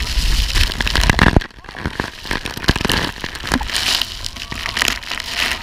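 Waterfall spray and water drops pelting the microphone in a crackling patter, with heavy wind buffeting that cuts off suddenly about a second and a half in.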